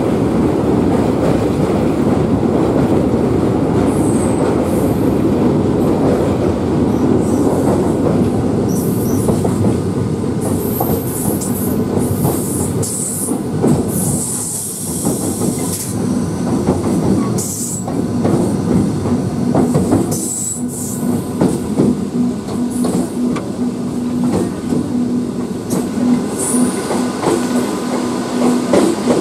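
Electric suburban local train running, heard from an open carriage doorway. For the first several seconds the wheels make a dense, heavy rumble on the steel truss bridge. After that come the knocks of wheels over the rail joints, with high-pitched wheel squeal at times as the train takes a curve.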